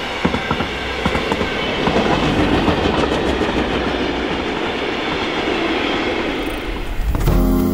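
Electric express passenger train passing at speed: a loud, continuous rush of wheel and air noise with a few clicks of wheels over the rail joints in the first second or so. Music cuts in suddenly near the end.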